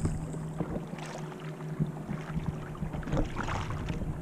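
Kayak paddle strokes dipping and splashing in calm water about every second, over a steady low hum.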